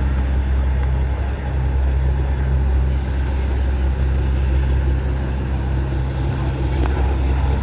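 Big diesel race trucks' engines running loud, with a steady deep drone that holds one pitch.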